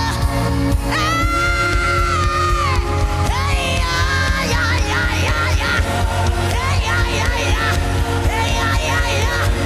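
Live gospel worship music: a singer holds one long high note with a wavering ending about a second in, then breaks into quick wordless vocal runs and ad-libs over a band with a steady bass beat.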